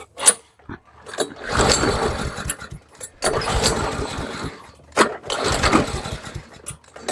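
Pull-start cranking of a hot 140cc PowerMore mower engine: about three hard pulls on the recoil starter, each a surge of rapid chuffing that dies away without the engine catching. It fails to restart while hot.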